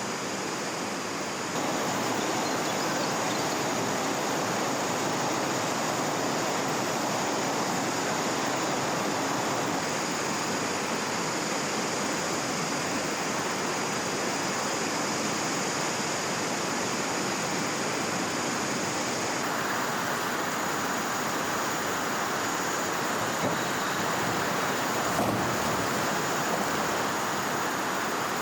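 Steady rush of flowing river water, shifting suddenly in level and tone about a second and a half in and again about two thirds of the way through.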